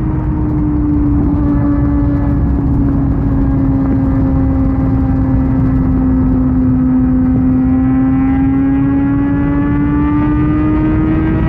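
Kawasaki Ninja ZX-6R inline-four through an SC-Project aftermarket exhaust, held at high revs at highway speed, over a dense rush of wind and road noise. The engine note eases down a little in pitch and climbs again near the end.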